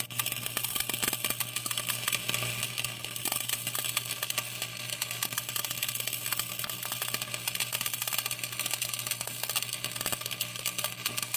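Electric arc welding on the steel loader upright: a steady, dense crackle from the arc over a low hum.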